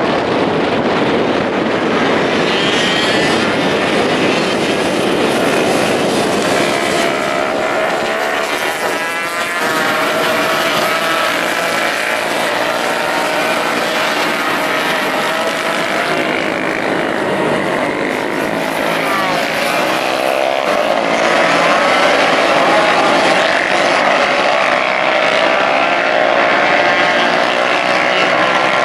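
A pack of 125cc and Supersport 300 racing motorcycles running at high revs, many engines overlapping, their pitches rising and falling as the bikes accelerate and shift.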